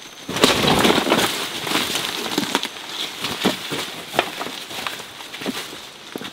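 Irregular rustling and crackling with scattered sharp snaps, like dry plant material being handled or trodden; densest about half a second to a second in.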